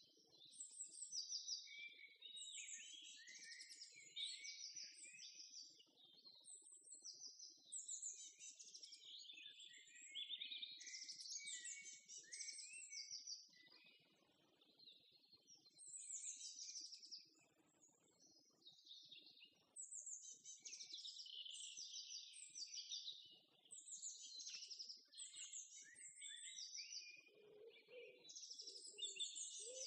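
Small birds chirping and singing faintly: a continuous run of short, high, quickly repeated chirps, with a lower-pitched call repeating near the end.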